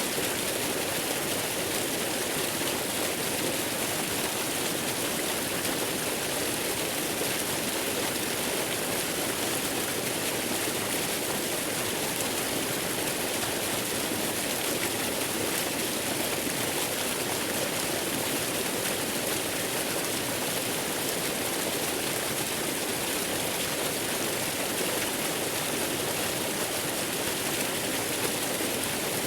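Waterfall rushing steadily: an even, unbroken hiss of falling water with no change in level.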